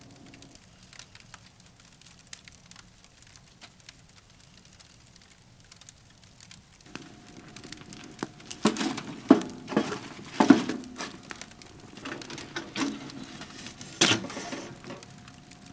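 Faint scattered crackles, then from about seven seconds in a louder run of crinkling and sharp clicks, loudest between nine and fourteen seconds.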